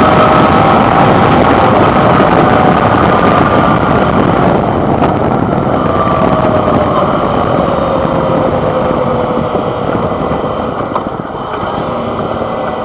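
Suzuki V-Strom 650 XT's V-twin engine running under way, heard from the handlebar over a dense rush of wind and road noise. The engine note sinks slowly, and the sound grows quieter near the end as the bike eases off.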